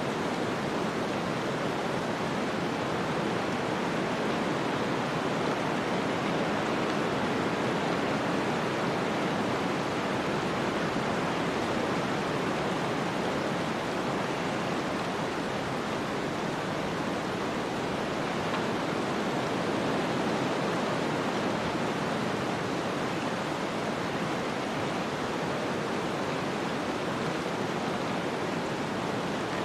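Snowstorm ambience: a steady, even rush of wind-driven noise with no distinct events, swelling and easing only slightly.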